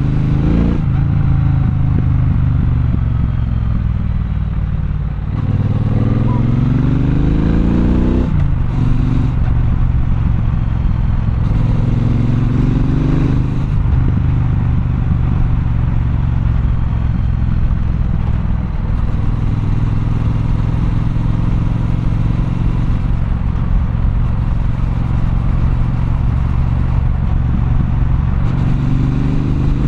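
Triumph Bonneville Bobber's 1200 cc parallel-twin engine pulling through the gears: the revs climb and drop back at each shift several times in the first fourteen seconds or so, then run fairly steadily at cruising speed before climbing again near the end.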